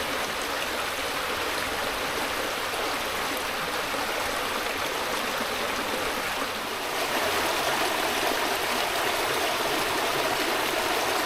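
Brook running steadily with an even rush of water, a little louder from about seven seconds in.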